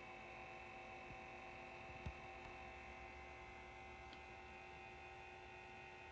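Cooling fans of a Behringer EPQ304 power amplifier running steadily at idle with no signal. It is a faint, even hum with a whine in it, made of several steady tones, with a light tick about two seconds in.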